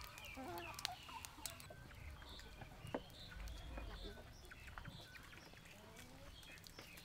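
Faint bird calls: short chirps and clucks scattered throughout, with an occasional sharp click, the clearest about three seconds in.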